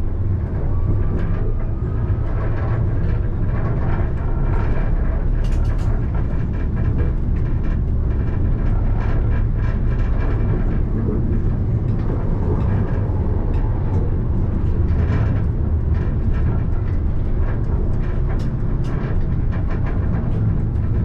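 Alstom Citadis tram running on its rails: a steady rumble with many scattered clicks and knocks from the wheels over the track. A faint rising whine sounds in the first couple of seconds as it picks up speed.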